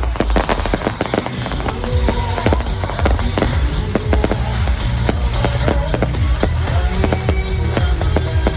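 Fireworks going off in a rapid, continuous barrage of bangs and crackles over a deep rumble, with music playing along.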